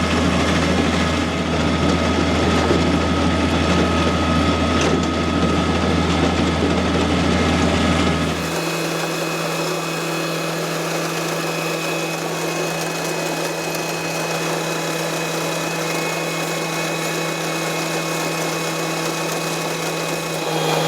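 Tractor engine running steadily, heard from inside the cab, a deep constant drone. About eight seconds in the deepest part of the drone drops away abruptly, leaving a lighter, quieter steady hum.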